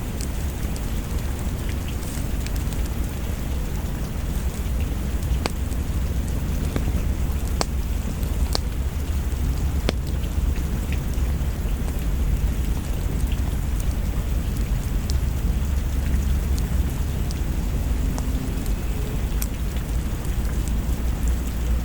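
Steady rain with a deep low rumble underneath and scattered sharp clicks.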